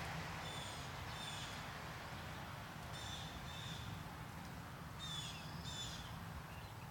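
A bird calling: three pairs of short, high calls a couple of seconds apart, over a steady low background rumble.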